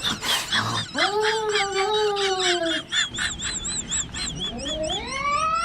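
Cartoon cat-like wailing cries: a long call that falls slowly in pitch, then a high warbling whistle, then a call rising in pitch near the end, over a fast, even ticking.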